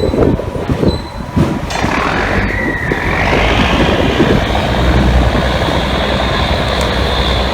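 Fishing boat's machinery running loudly with a deep hum, and a whine that rises about two seconds in and then holds high.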